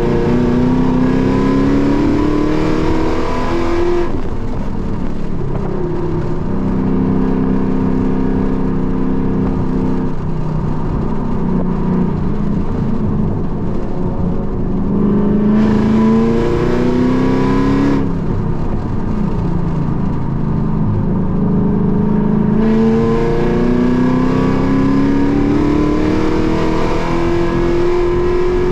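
Car engine heard from inside the cabin under hard track driving, climbing in pitch through the gears and dropping back at each upshift several times, between steadier, lower stretches of engine note.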